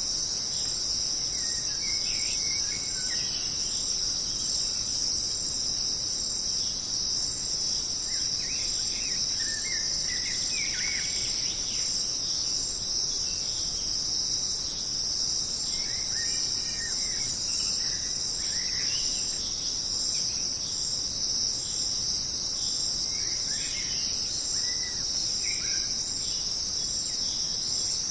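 Dense insect chorus: a steady, unbroken high-pitched drone. Short bird calls break in over it every few seconds.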